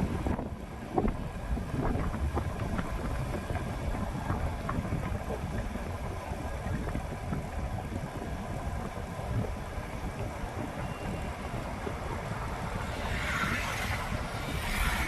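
Wind buffeting the microphone of a moving motorbike, a steady low rumble with the engine and street traffic underneath; the noise swells briefly near the end.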